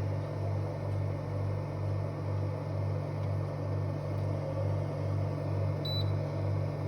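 Montpellier wine fridge humming steadily, a low hum that throbs a couple of times a second, with a single short high beep from its control panel near the end.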